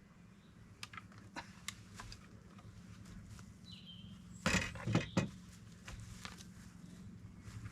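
Scattered light clicks and knocks over a low steady hum, with a louder short clatter about four and a half seconds in.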